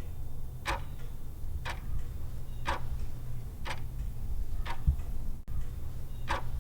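Clock-style ticking sound effect of a quiz countdown timer, one tick about every second, six ticks in all, over a steady low hum.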